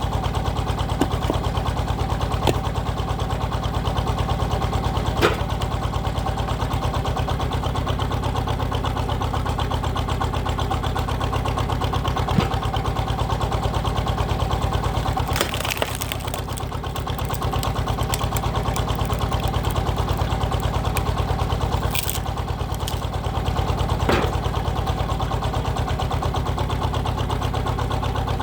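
Power tiller's single-cylinder diesel engine running steadily, powering a hydraulic log splitter. A few sharp knocks are heard, and there is a short noisier stretch about halfway through.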